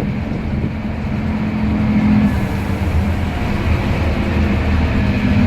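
Scania N230UD double-decker bus running under way, heard on board: a steady diesel engine drone with a faint whine from the ZF Ecomat automatic gearbox, picking up slightly about two seconds in.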